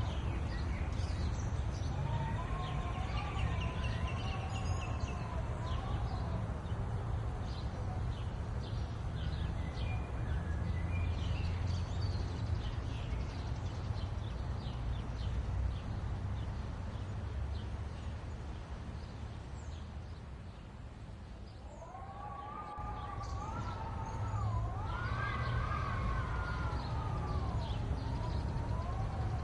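Small birds chirping and twittering over a steady low rumble. Twice, a few seconds in and again from about two-thirds of the way through, a long wavering tone rises and falls for several seconds.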